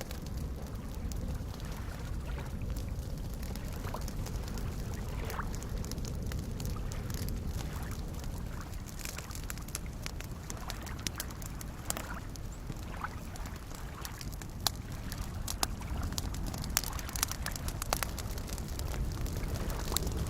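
Wood campfire crackling with irregular sharp pops over a steady low wash of soft lake waves lapping; the pops come more often from about halfway through.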